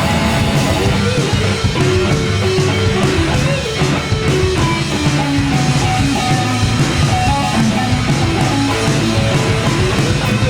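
Live rock band playing an instrumental passage: electric guitars and drums, with a guitar line moving over a steady beat and no singing.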